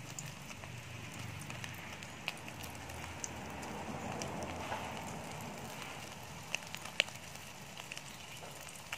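An egg and fish-paste omelette sizzling in shallow oil in a steel wok: a steady frying hiss with a few sharp pops of spattering oil, the loudest about seven seconds in.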